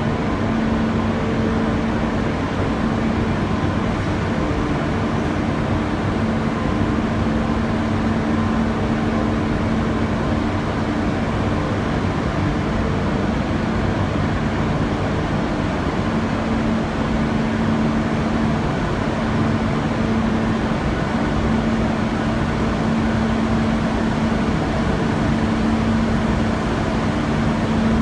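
Steady industrial machinery noise from a large furnace installation: an even drone with a low hum that weakens for a while midway and then returns.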